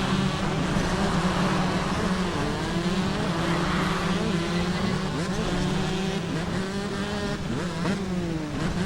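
Several motorcycle engines running and revving at once, their pitches rising and falling over a steady low engine drone.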